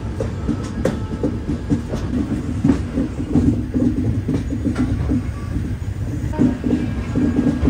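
Passenger train running along the track: a steady low rumble with irregular clacks and rattles.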